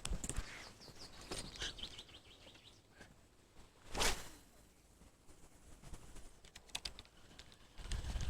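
Small birds chirping in short runs of quick high notes, with a single brief whoosh about halfway through and a few faint clicks after it.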